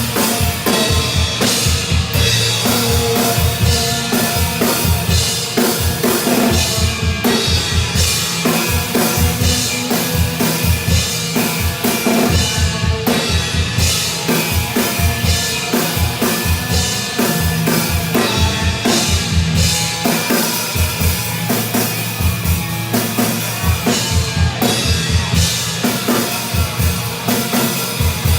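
Drum kit played hard and fast, with rapid, steady bass drum strokes under snare and cymbals, over accompanying music with held low notes.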